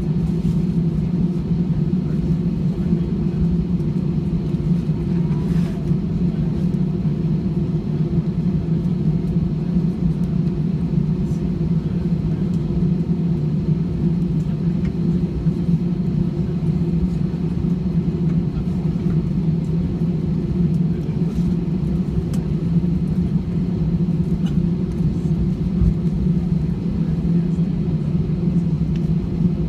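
Steady low cabin rumble of a jet airliner taxiing after landing: engines at idle and the airframe rolling along, an even drone with a constant hum.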